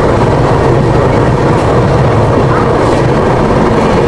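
Rajdhani Express passenger train running at speed, a steady loud rush of wheel-on-rail noise and wind heard from beside the coach's open doorway.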